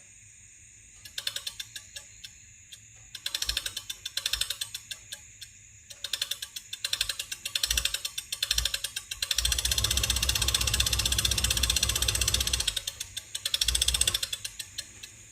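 Small DC motor of a homemade can-built model ceiling fan running in repeated short bursts, each a run of rapid clicks that speeds up. About nine seconds in the clicks blur into a steady buzz for about three seconds, then break into clicking bursts again near the end.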